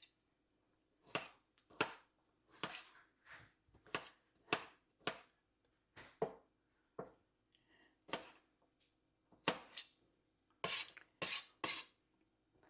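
Kitchen knife chopping on a cutting board: about fifteen sharp, unevenly spaced cuts.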